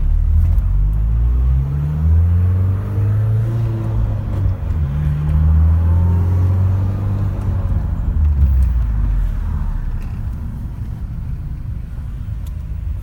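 2004 Mini Cooper S R53's supercharged four-cylinder pulling through several gears with its one ball muffler mod. The engine note rises in pitch and drops back at each upshift, then settles to a steadier, quieter cruise over the last few seconds.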